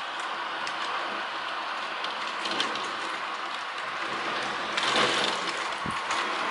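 Heavy rain pouring down steadily, with many small sharp taps of drops striking nearby surfaces and a louder surge of the downpour about five seconds in.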